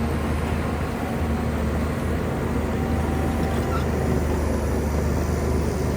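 Shantui bulldozer's diesel engine running steadily, a deep, even drone with no break.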